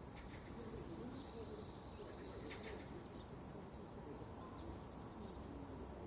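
Faint outdoor birdsong: a few short chirps and a thin high whistled note over a steady high background hiss.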